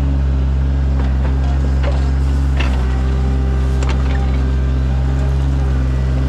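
Sany mini excavator's diesel engine running steadily under working load, with a few sharp knocks about two and a half and four seconds in.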